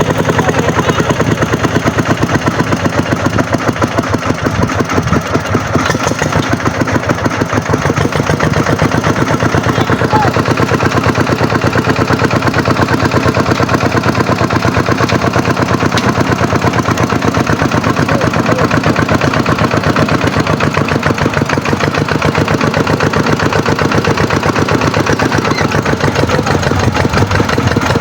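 Kubota tractor's diesel engine running steadily and loudly, with a fast, even exhaust beat.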